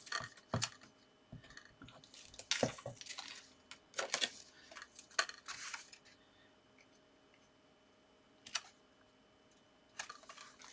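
Card stock and paper being handled on a craft table while a gatefold card is glued and pressed together: scattered light taps and clicks with brief paper rustles.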